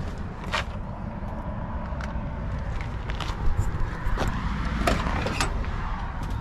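Handling noises around a pickup truck: a steady low rumble with a scattered series of sharp clicks and knocks.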